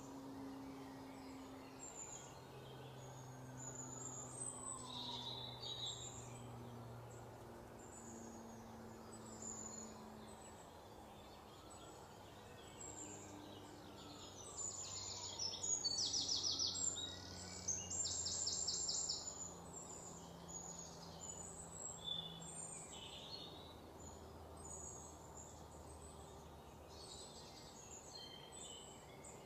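Birds chirping and calling outdoors over a faint low background hum, with a fast trilling call that is the loudest sound about halfway through.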